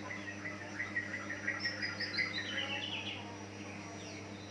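Green leafbird (cucak ijo) singing: a rapid string of chattering chirps, then a quick run of notes stepping down in pitch around the middle, with a further short phrase near the end. A steady low hum runs underneath.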